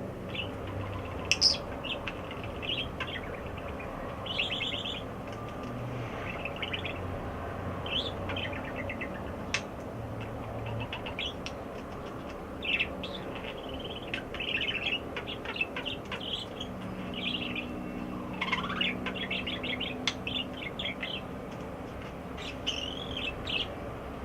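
Pet bird chirping and babbling: a steady run of short chirps and quick trills, with one rising whistle about three-quarters of the way through.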